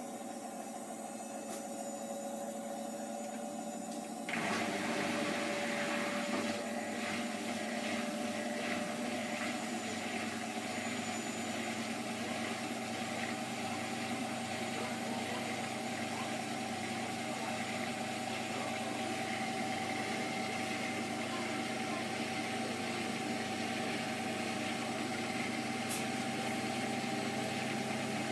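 Hotpoint HE8L493 washing machine's motor running with a whine that rises slowly in pitch: the drum is speeding up, typical of a spin. About four seconds in, the sound steps up suddenly to a louder whirring with a low hum.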